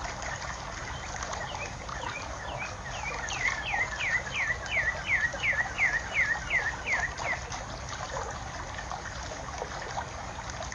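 A bird singing a run of quick, falling whistled notes, about three a second, that grow louder and stop about seven seconds in, over a steady hiss of trickling water.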